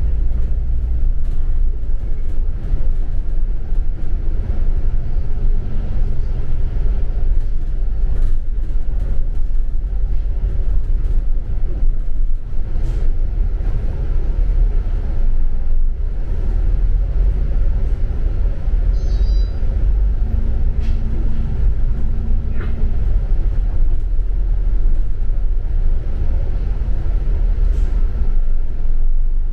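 Double-decker bus driving, heard from on board: a steady low rumble of engine and road, with scattered light rattles and clicks.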